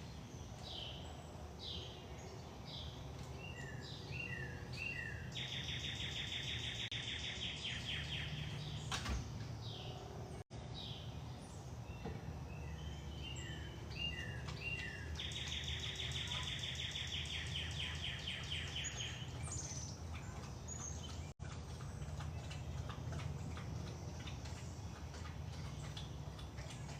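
A songbird sings the same song twice. Each song is a string of short down-slurred notes followed by a rapid trill lasting about two seconds. A steady low outdoor rumble runs underneath.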